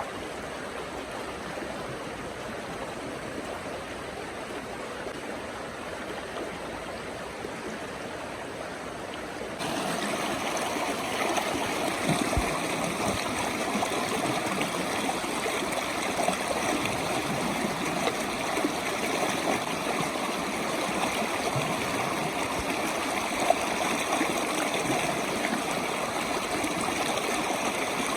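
River water rushing steadily. It jumps louder suddenly about ten seconds in, with a few faint knocks over it.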